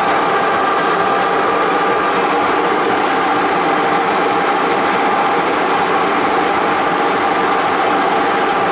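A motor running steadily at a constant speed, a steady hum with several fixed tones.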